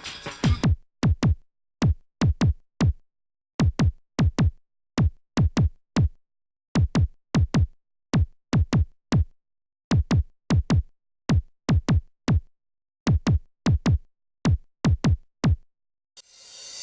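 Sparse electronic drum-machine pattern: short hits that each drop sharply in pitch, mostly in pairs with silent gaps between. A hissy, noisy texture comes in near the end.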